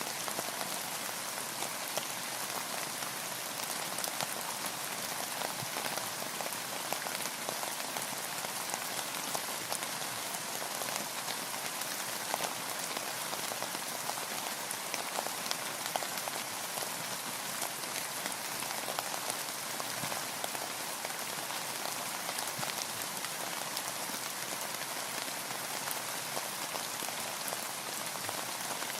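Steady rain falling on a boat, an even hiss with many small drop taps throughout.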